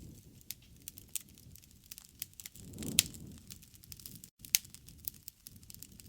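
Wood fire crackling, with irregular sharp pops over a low rush of flame. About halfway through, the rush swells with the loudest pop, and another sharp pop follows a second and a half later.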